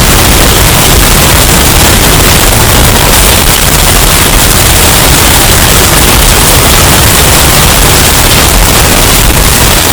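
Hurricane wind sound effect, bass-boosted and heavily distorted: a steady, very loud wall of noise across the whole range with a heavy low rumble.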